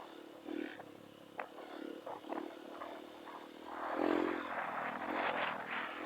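Trail motorcycle engine running, revving up louder about four seconds in and staying up near the end, with scattered knocks and scrapes.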